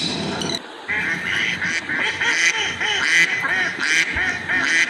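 Ducks quacking, many overlapping calls in quick succession, starting about a second in. Just before them, a shrill repeating parrot call cuts off about half a second in.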